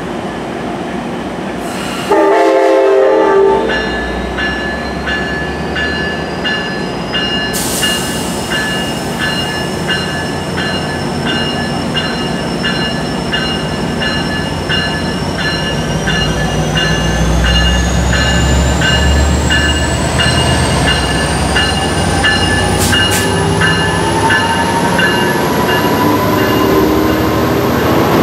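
Passenger train at a station platform sounding a short horn blast, with its bell ringing at about two strokes a second. The train then pulls away, a rising whine and rumble building as it accelerates.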